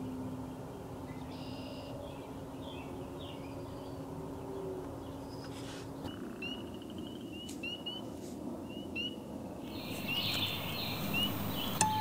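Outdoor ambience of birds calling over a steady background rush: a run of short, rising chirps repeated about a dozen times in the second half, then busier chirping near the end. A held low guitar note dies away over the first half.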